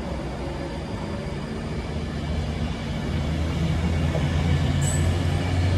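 Avanti West Coast express passenger train running through the station at speed: a steady low rumble and hum of the passing coaches that grows gradually louder from about two seconds in, with one brief high squeak near the end.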